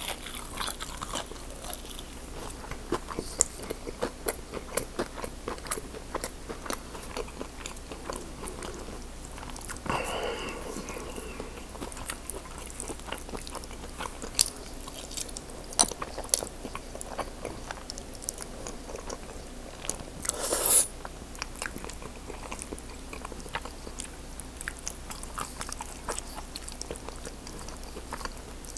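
Close-miked eating of a seafood platter with fries and pasta: steady chewing with many wet mouth clicks and smacks, and a couple of louder mouth noises about ten and twenty seconds in.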